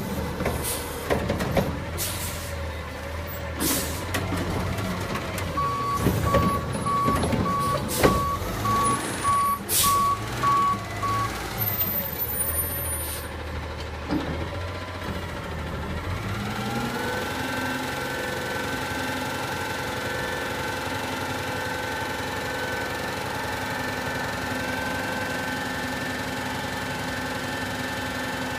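Garbage truck working a yard-waste pickup: knocks and short sharp bursts, then its reversing beeper sounds in a steady series of beeps for about five seconds. From about 16 s in the diesel engine rises to a higher speed and holds there steadily.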